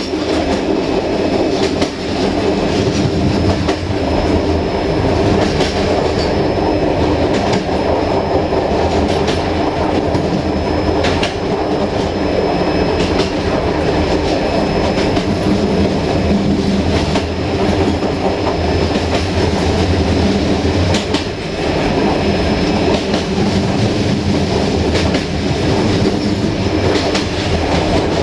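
Passenger train running along the line, heard from its rear carriage: a steady rumble of wheels on rail, with irregular sharp clicks as the wheels pass over rail joints.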